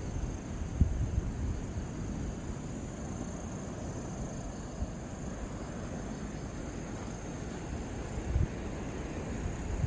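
Wind rumbling on the microphone, with a couple of stronger gusts, about a second in and near the end, over a steady high-pitched hum.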